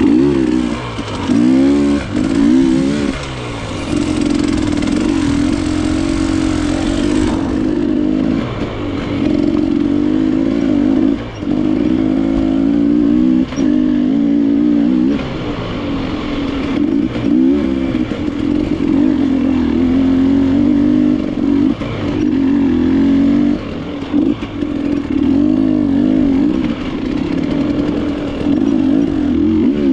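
KTM enduro motorcycle engine being ridden on a trail, revving up and down with the throttle, with short dips where the throttle is rolled off.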